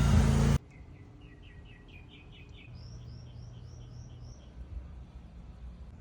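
A loud, dense noise with a low hum cuts off abruptly about half a second in. A songbird then sings a two-part song: a quick run of chirps rising step by step in pitch, then a run of higher, down-slurred whistled notes.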